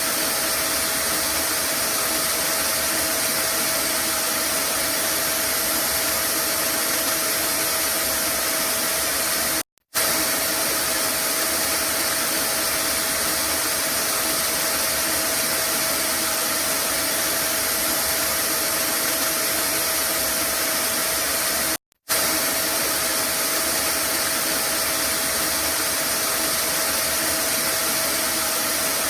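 Vacuum cleaner running steadily as white noise: an even rushing hiss with a steady whine through it. It cuts out for a split second twice, about ten seconds in and again about twenty-two seconds in.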